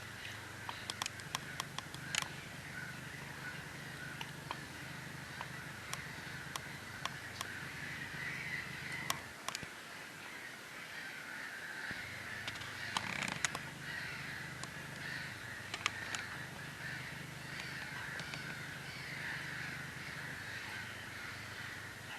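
Many wild birds calling at once in a continuous, busy chorus, with scattered sharp clicks over a low steady hum.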